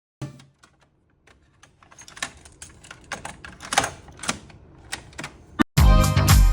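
Irregular mechanical clicks and taps from a Panasonic boombox's cassette player being handled and its keys operated. Near the end, loud funk-style music starts playing.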